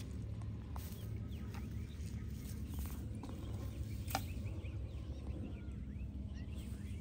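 Birds chirping with short scattered calls over a steady low rumble, with a single sharp click about four seconds in.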